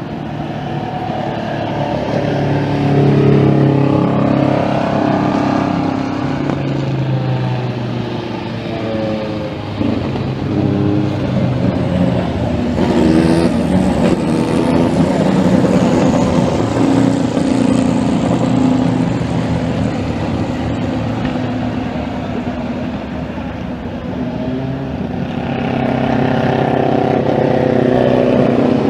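Endurance race cars at Le Mans passing one after another, their engines rising and falling in pitch as they accelerate and shift gears. The sound is loudest near the start and again near the end.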